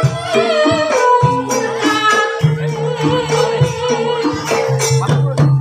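Live Javanese gamelan music of the kind played for an ebeg trance dance. Pitched metal keys are struck in a repeating pattern over low sustained gong-like tones, with a wavering melodic line and sharp drum and rattle strokes.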